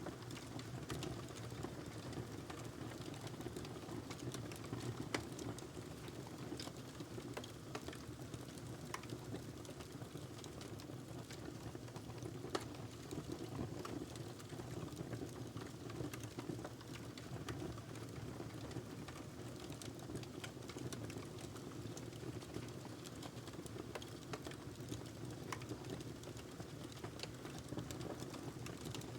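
Wood fire burning in a fireplace: a steady low rush of flames with frequent irregular crackles and pops from the logs, two of them sharper, about five seconds in and near the middle.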